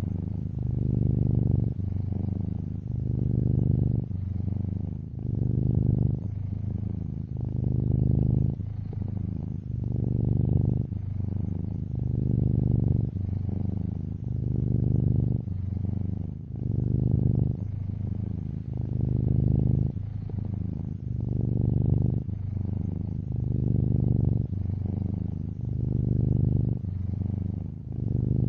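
Domestic cat purring close up, in a steady rhythm that swells and eases about every two seconds as the cat breathes in and out.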